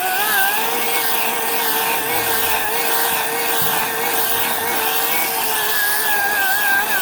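Ryobi 18-inch electric chainsaw running steadily while cutting birch, its motor whine wavering up and down in pitch as the load on the chain changes.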